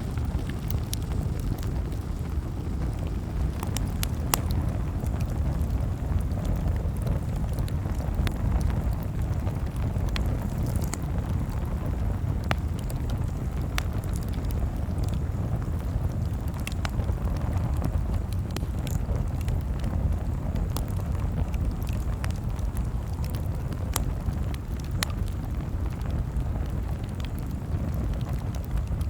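Wood fire crackling: sharp, irregular pops and snaps over a steady low rumble.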